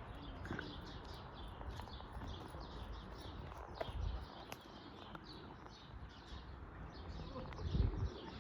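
Small birds chirping continuously: short, high, falling calls several times a second over a quiet background. There are a couple of brief low rumbles, one around the middle and one near the end.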